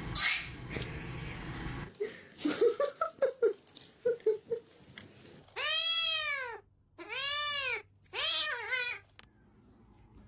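A cat meowing: three long meows, each rising then falling in pitch, in the second half. Shorter sharp sounds come before them, and a steady noise fills the first two seconds.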